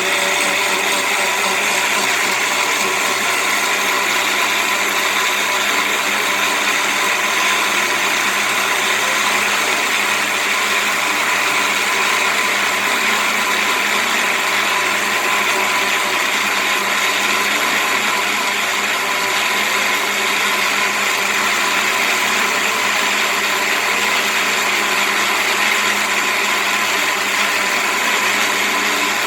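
Countertop blender running steadily at high speed, setting 9, pureeing cooked carrots.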